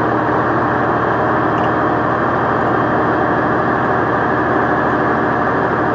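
A vehicle's engine and road noise in a steady, even drone, with no changes or impacts.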